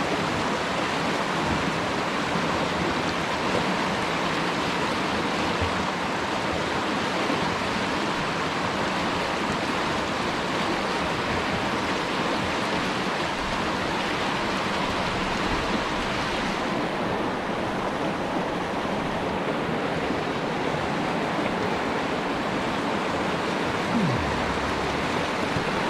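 Steady rushing water of a flowing river current, an even hiss that softens slightly in its upper part about two-thirds of the way through.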